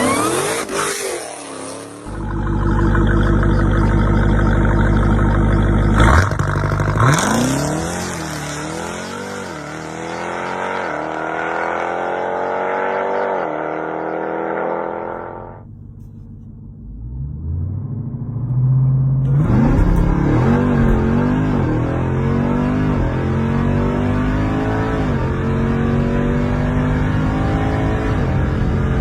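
Jeep Grand Cherokee Trackhawk's supercharged 6.2-litre V8 held at high revs for a launch, then accelerating hard, its pitch climbing and dropping back through several quick upshifts. After a brief quieter stretch past the middle, another hard run climbs through the gears the same way.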